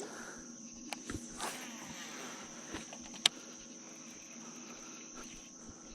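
Insects singing, a steady high-pitched drone, with a few short sharp clicks, the loudest just after three seconds in.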